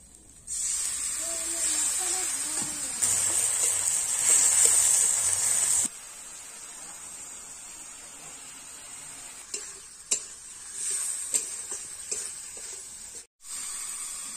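Food sizzling in hot oil in a metal kadai. It starts suddenly about half a second in as ingredients are tipped in from a steel bowl, then drops to a quieter steady sizzle near six seconds. A few sharp scrapes and knocks of a spatula stirring the pan come later on.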